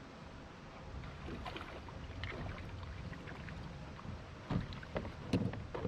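Fishing kayak on the water with a steady low wind-and-water rumble, and scattered knocks and clatter on the boat, the loudest about four and a half and five and a half seconds in, while a big fish is being fought.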